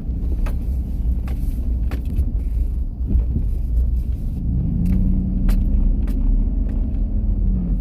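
Pickup truck engine and road rumble heard from inside the cab while driving, a steady low rumble with the engine note rising about four and a half seconds in, holding, and falling away near the end. A few sharp clicks sound over it.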